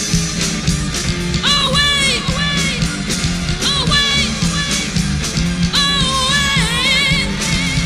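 Rock band playing at full volume: a steady bass and drum groove under a melodic lead line that bends and wavers in pitch in short phrases.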